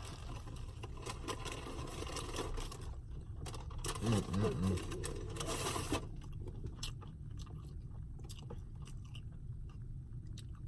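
Close-up chewing and crunching of a crispy fried chicken sandwich. It is dense and noisy for the first six seconds, with a short low voice sound about four seconds in, then turns to softer chewing with scattered clicks.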